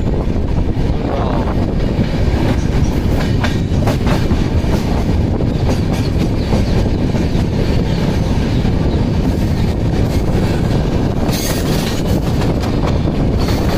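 Double Decker Express coaches running along the line, heard at the side of the moving train: a steady rumble of wheels on rails with a clickety-clack over the rail joints.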